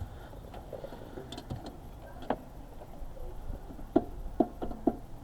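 Light, sharp knocks of a hand tool working on a stuck car part. A few scattered clicks come first, then from about four seconds in a run of knocks at about two a second.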